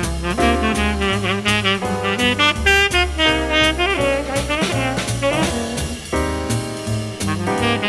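Swing jazz music with saxophone and brass playing a melody over a steady bass line.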